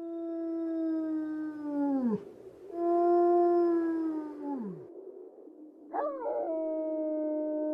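A dog-like howl, given three times. Each call is held long on one steady pitch and then falls away sharply at its end; the third starts with a brief waver about six seconds in.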